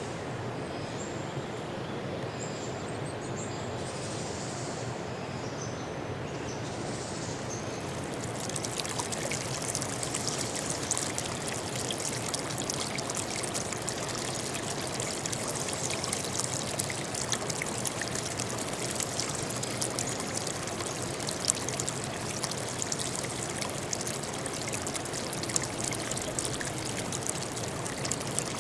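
Running water trickling and splashing over a steady low rush. About eight seconds in, a brighter crackling splash joins in and continues.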